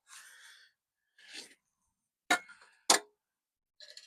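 Two sharp metallic clinks a little over half a second apart, past the middle, from steel bumper parts and hardware being handled, the second the louder and ringing briefly. Softer rustling comes before them.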